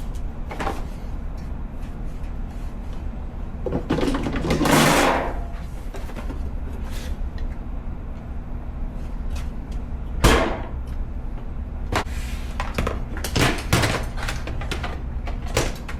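Handling knocks and clicks over a steady low rumble: a rushing scrape about four seconds in, a single sharp knock about ten seconds in, and a run of clicks and knocks near the end.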